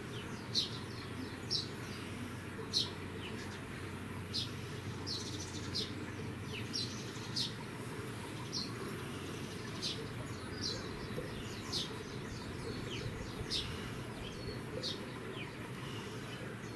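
Small birds chirping: short, high, downward-sliding chirps scattered about once or twice a second, over steady low background noise.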